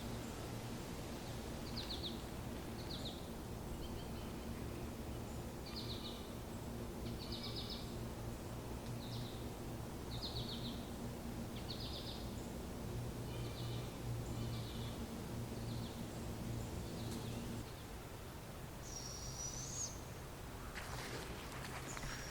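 A bird giving short, raspy calls, about one a second, repeated a dozen times, over a steady low hum that stops near the end.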